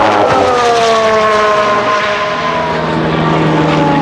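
Formula 1 car's 1.6-litre turbocharged V6 hybrid power unit at high revs, its engine note falling steadily in pitch. A second, lower engine note joins about halfway through.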